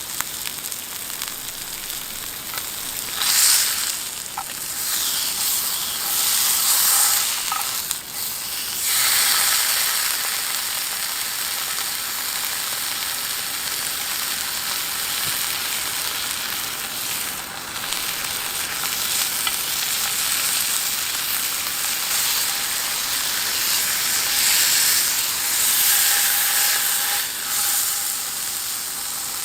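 Food sizzling in a hot pan over a campfire: a steady, high-pitched frying hiss that swells louder several times, about 3 s in, around 6 to 9 s, and again near the end.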